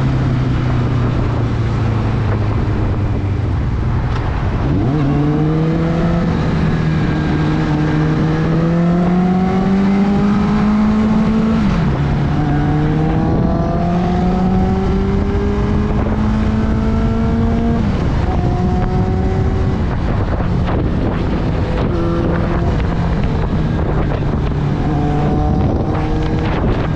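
Suzuki GSX650F's inline-four engine under way, accelerating through the gears. The engine note climbs, drops at a gear change, climbs again and drops at a second shift, then holds a steady cruising note, over wind rush on the microphone.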